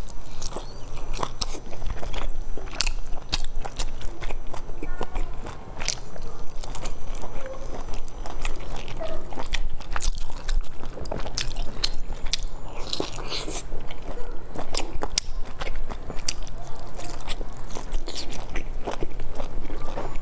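A person biting into and chewing soft steamed dumplings close to the microphone, with many wet, irregular mouth clicks and smacks.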